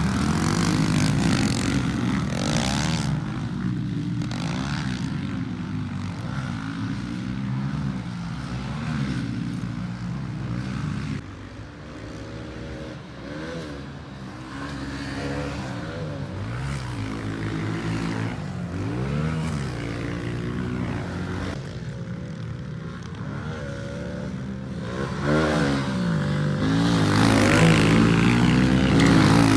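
Pit bike engine revving up and down over and over as the throttle is opened and closed through the track's sections, quieter for a few seconds about a third of the way in and loudest near the end.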